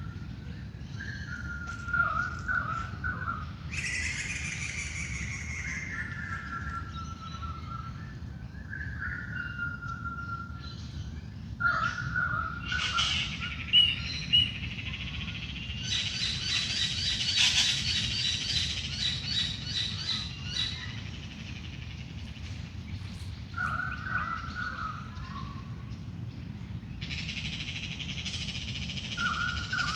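Wild birds in a dawn chorus: one bird repeats a short call with falling notes every few seconds, while others add bursts of high chirps and trills, busiest about halfway through. A steady low rumble runs underneath.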